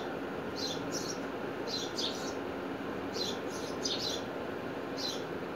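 Small birds chirping: short high chirps, about eight of them and often in pairs, over steady background noise.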